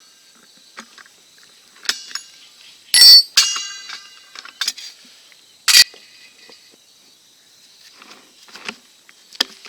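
A few sharp metallic clinks, some with a brief ringing, the loudest about three seconds in and another near six seconds, with faint scattered ticks between them.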